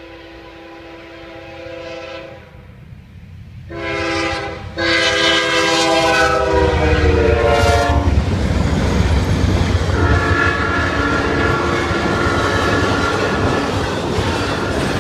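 Railroad locomotive horn sounding at a crossing: a long blast, then louder blasts about four seconds in that fall in pitch as the locomotive passes. The train's rumble and its wheels clacking over the rail joints then take over.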